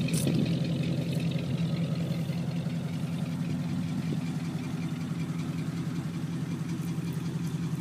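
Flathead Ford V8 of a 1949 Ford coupe idling steadily through dual exhausts with cast iron headers and 17-inch Mellow Tone mufflers.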